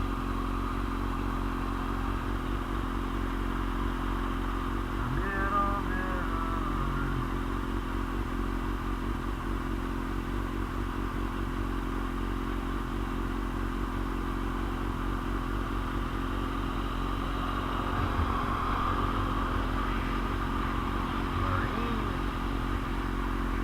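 2001 Suzuki GSX-R750's inline-four engine running at a steady cruise, under heavy wind noise on the microphone.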